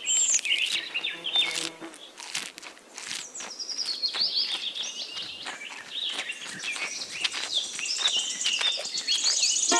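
Birds chirping and twittering in quick high chirps that glide down in pitch, with many short clicks mixed in.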